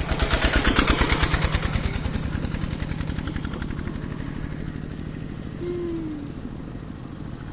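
Motorcycle engine running with a rapid, even pulse, loudest at first and fading slowly over several seconds.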